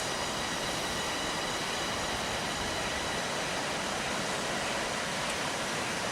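Jungle insects droning, a steady high chorus of several held tones, over an even rushing noise.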